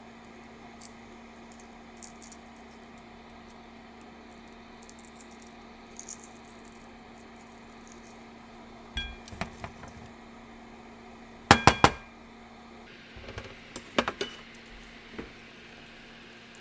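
Dishes and kitchen utensils clinking and clattering: scattered light clicks, then three sharp ringing clinks in quick succession about halfway through, and more clatter after them, over a steady low hum.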